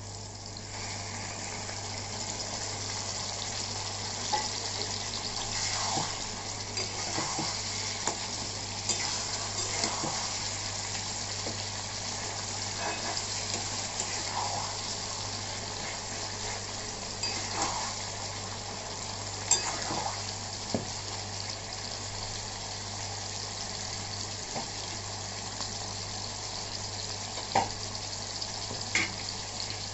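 Chicken liver and gizzard pieces sizzling steadily in hot oil in a kadhai, with a spatula scraping and knocking against the pan every few seconds as they are stirred.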